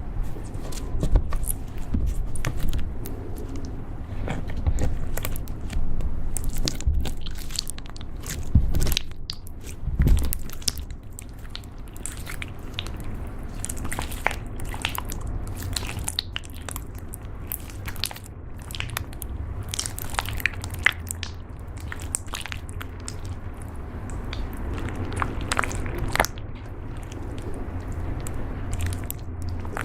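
Slime being squished and kneaded by hand, with many small crackles and pops.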